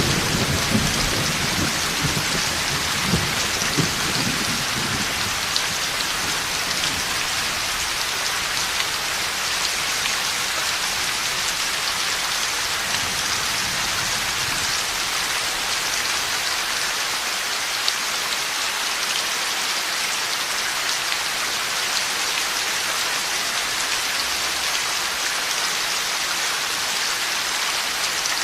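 Heavy rain falling steadily in a thunderstorm. A low thunder rumble dies away over the first few seconds, and a fainter one comes about halfway through.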